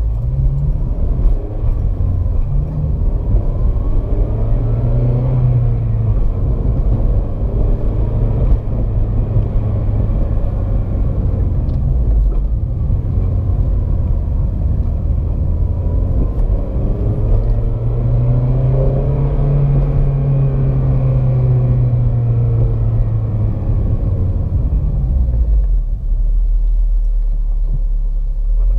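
2007 Honda Civic Si's four-cylinder engine pulling under acceleration and easing off while the car drives through the gears, over a heavy low road rumble. The engine note rises and falls twice.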